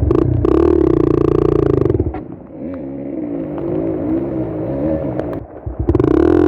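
Single-cylinder four-stroke dirt bike engine revving under load. It runs hard for about two seconds, drops off and rises and falls in pitch through the middle, then comes back loud and steady near the end.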